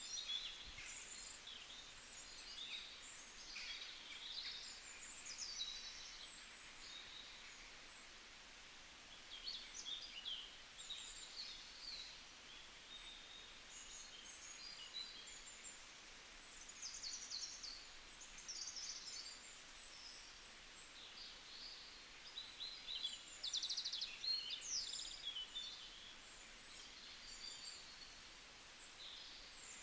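Several small songbirds chirping and trilling in a bamboo forest, with short high calls coming in clusters over a faint steady hiss.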